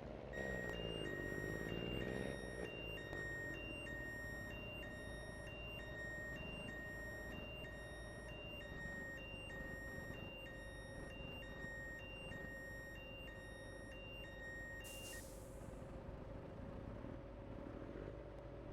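Reversing alarm on a Scania heavy vehicle beeping steadily over its diesel engine, which changes revs at first and then runs at a steady idle. The beeping stops about three-quarters of the way in, followed by a short hiss of released air from the air brakes.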